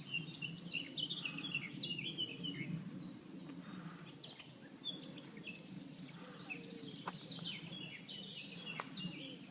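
Several songbirds singing, a dense run of quick high chirps and trills in the first three seconds, then scattered calls that thicken again near the end. A steady low rumble runs underneath.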